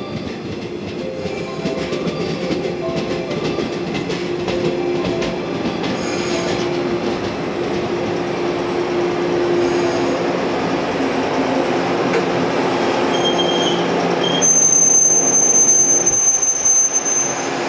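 Yellow electric multiple-unit commuter train running past on the station track, its wheels clicking over rail joints and growing louder as the cars go by. A high, thin steady wheel squeal sets in about three-quarters of the way through.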